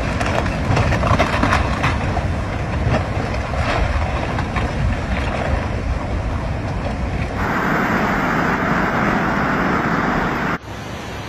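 Steady rushing noise of storm wind and water, with no clear engine or voice in it. It changes abruptly twice, to a brighter hiss about seven seconds in and to a quieter rush near the end.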